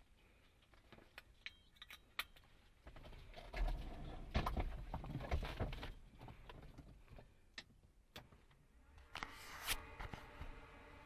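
Clicks, knocks and rustling of things being handled, with a few low thumps, in a small enclosed space. A faint steady hum begins near the end.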